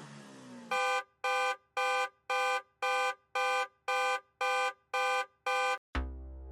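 Electronic countdown-timer beeping, ten identical short beeps about two a second, counting down the end of a quiz round. A sudden low boom with a rising sweep comes in just before the end.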